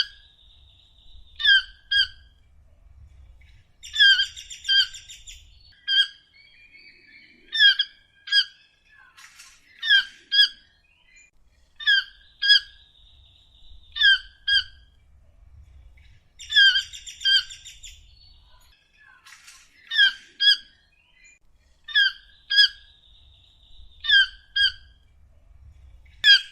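Toucan calling: short, sharp, squawking notes, mostly in pairs, repeated about every two seconds.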